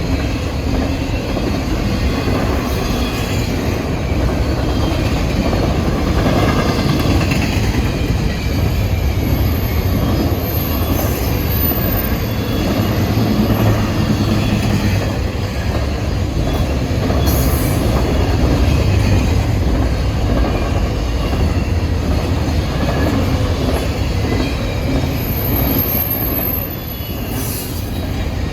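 Railroad cars rolling steadily past, with continuous wheel and rail noise and faint, wavering wheel squeal.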